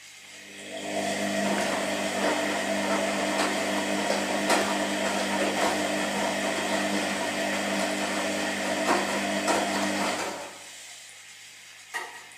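Washing machine motor turning the drum: it starts up about half a second in and runs with a steady hum and scattered clicks, then winds down and stops after about ten seconds. A couple of short clicks follow near the end.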